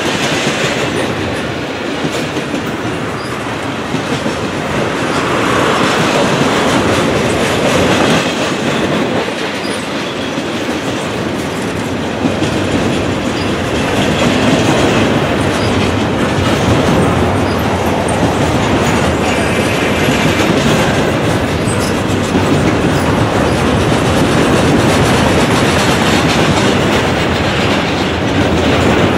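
Double-stack intermodal train's container well cars rolling past close by, a steady loud clatter of steel wheels over the rails with the level swelling and easing as the cars go by.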